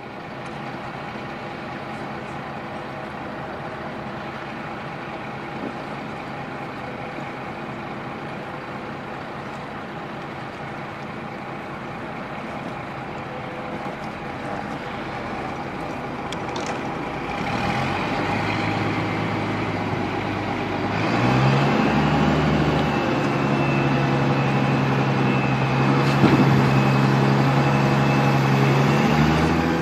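Motor yacht's engines running steadily, then growing louder and deeper about two-thirds of the way through and stepping up again a few seconds later.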